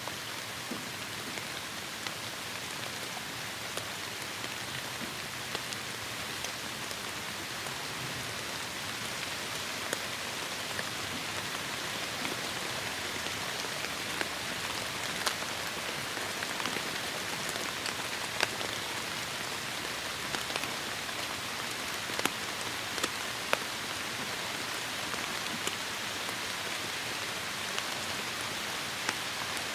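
Heavy rain falling steadily, a dense hiss with many sharp drop impacts scattered through it.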